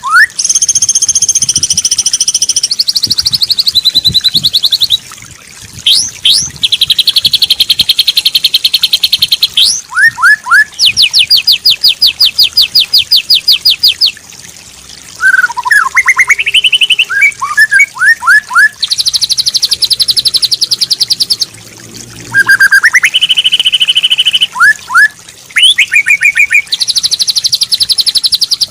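White-rumped shama song in a tutor recording: loud, varied phrases of fast rapid-note trills, high whistles and quick rising notes, packed with mimicked fillers and broken by short pauses.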